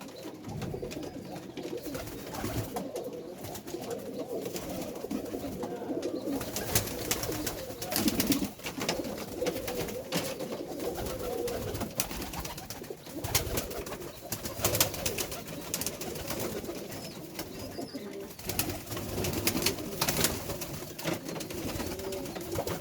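White domestic pigeons cooing continuously, with scattered sharp clicks and taps.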